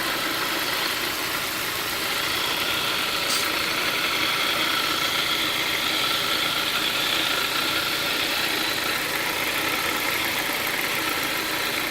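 Engine idling steadily, with a faint steady high-pitched whine over the running noise; the owner calls it a weird engine sound.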